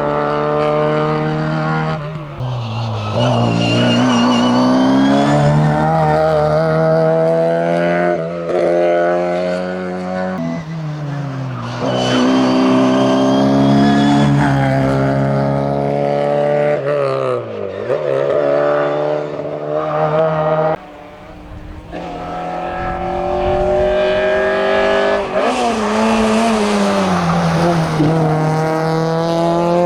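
Austin Mini's four-cylinder engine revving hard through the gears under full throttle, its pitch climbing and dropping at each upshift. About two-thirds of the way in it gives way to a Citroën Saxo rally car's engine, also revving high and shifting up.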